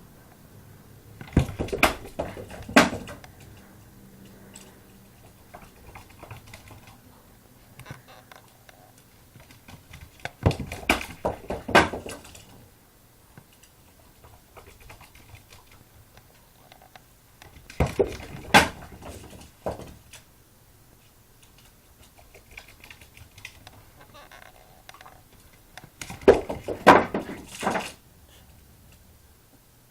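A ball bouncing and clattering on a hard indoor floor, in four bursts of quick knocks about eight seconds apart.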